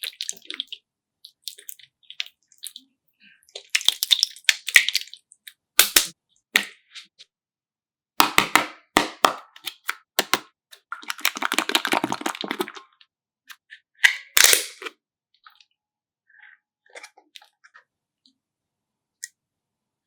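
Irregular sharp clicks and crackles from objects being handled, with a longer rough rustling stretch past the middle and a sharp burst soon after.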